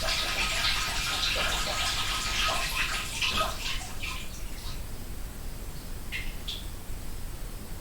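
A person urinating into a toilet bowl, heard muffled through a closed door: a steady splashing stream that tapers off about four seconds in, followed by a couple of last drips.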